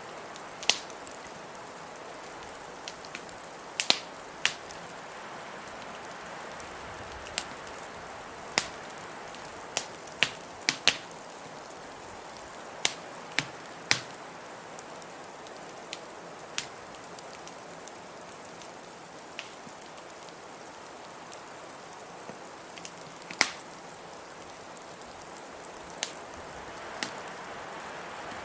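Wood fire crackling in a fireplace, with irregular sharp pops, over a steady rushing blizzard wind.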